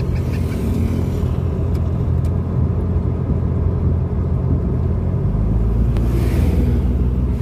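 A car driving, heard from inside the cabin: a steady low rumble of engine and road noise that grows louder a little past five seconds in.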